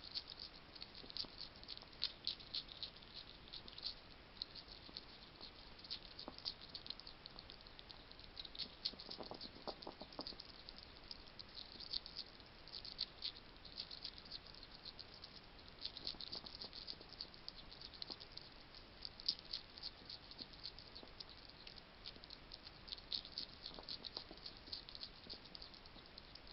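A wild hedgehog crunching and chewing food at a feeding station, heard as a dense, irregular stream of small crisp clicks and crackles. A short lower sound comes about nine seconds in.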